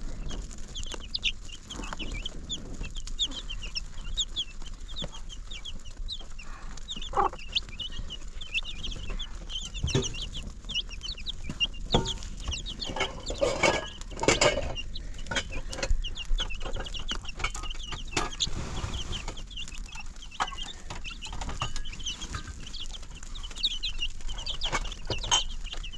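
Chickens clucking, with many short high cheeps throughout, and scattered knocks, busiest about halfway through.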